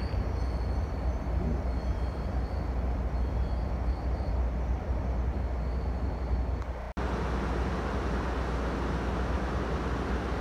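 Steady low rumble of a commuter train pulling away from the platform. After an abrupt cut about seven seconds in, a parked Siemens Charger diesel locomotive hums steadily at idle.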